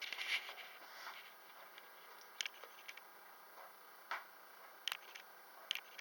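A few faint, sharp clicks and light taps, spaced irregularly, in a quiet room, after a brief rustle at the very start.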